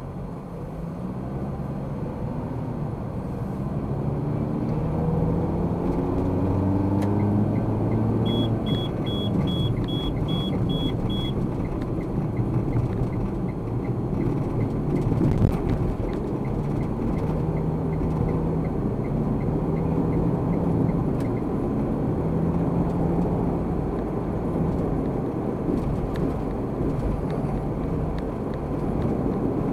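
Car engine and road noise heard from inside the car, the engine's pitch rising as it accelerates over the first several seconds, then holding steady while cruising. About eight seconds in, a quick run of eight short, high electronic beeps.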